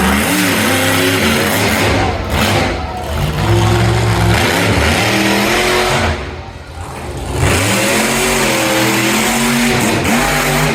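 Monster truck engine revving loudly, its pitch repeatedly climbing and falling, easing off briefly about six seconds in before revving up again.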